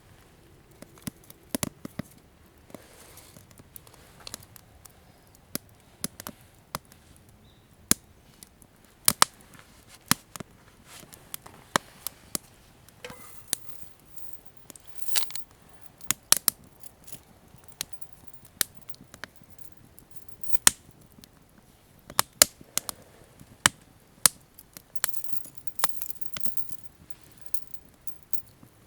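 Knife chopping on a cutting board: irregular sharp taps, about one or two a second.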